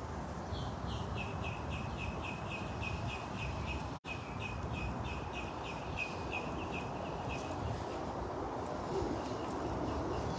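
A songbird singing a long run of quick, repeated, falling notes, about four a second, which stops near the end, over a steady low background rumble.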